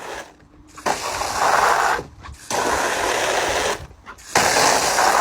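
Electric hair clippers running in three bursts of about a second each, with short breaks between them.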